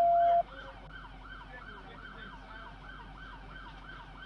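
Police car siren in yelp mode, rising and falling about three times a second. A loud steady beep lasting about half a second sounds at the start.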